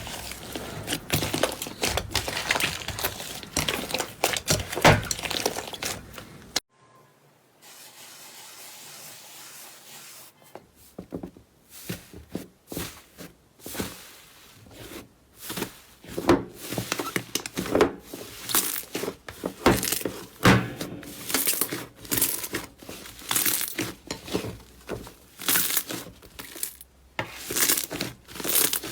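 Slime being squeezed, stretched and poked by hand, making dense crackling, popping and sticky tearing clicks. It drops off suddenly after about six and a half seconds. After a quieter stretch, the crackling picks up again at about ten seconds and grows busier.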